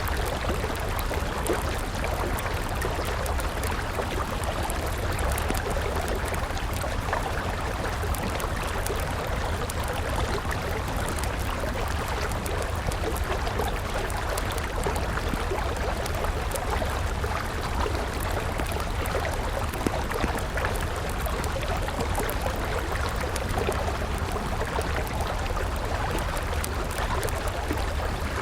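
River water flowing in a steady rush, with a wood campfire crackling in many small, quick pops over it.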